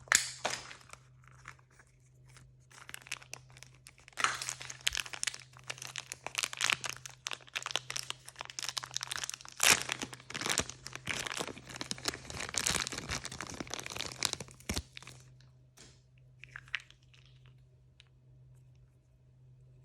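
A blind-bag wrapper is torn open and crinkled by hand. It makes a dense run of crackling and tearing from about four seconds in until about fifteen seconds, then goes quiet apart from a few soft clicks. A faint low hum runs underneath.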